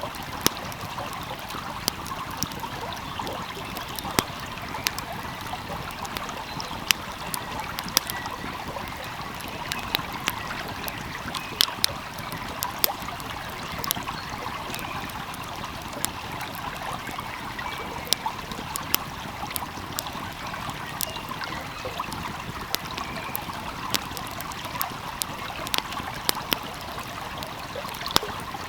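Steady rushing of a small flowing stream, with a wood fire crackling over it in sharp, irregular pops about once or twice a second.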